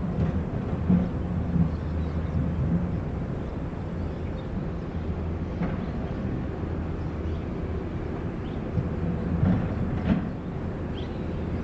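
Diesel engine of heavy construction machinery running steadily, with a few sharp knocks or clanks through it.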